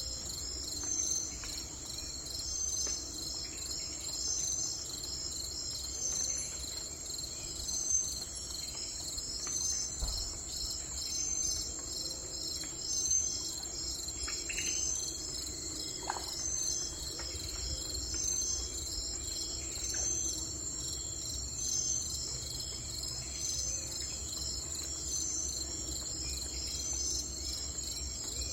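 Insects chirping steadily in a high, continuous trill, with a repeating chirp every second and a half or so. A few faint, short bird calls come through near the middle.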